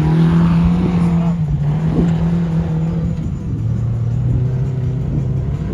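An off-road 4x4's engine pulling under load at steady revs, easing to lower revs about halfway through, with a brief knock from the vehicle about two seconds in.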